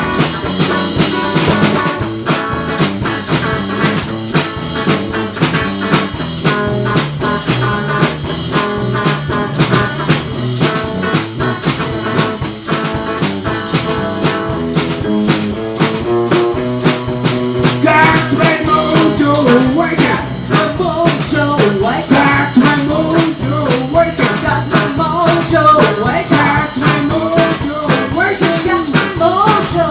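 Live blues band playing an instrumental passage with guitar and drum kit. About eighteen seconds in, a lead line with bending notes comes in over the band.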